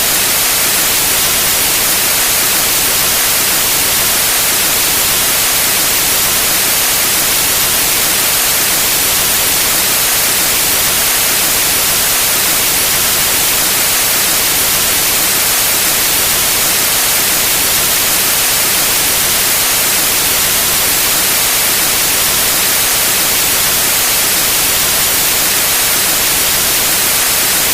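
Steady white noise: an even, loud hiss with most of its weight in the high range and no change throughout.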